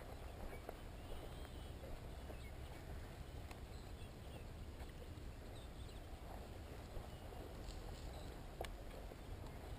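Faint footsteps and rustling through field cover, with a few light ticks over a steady low rumble.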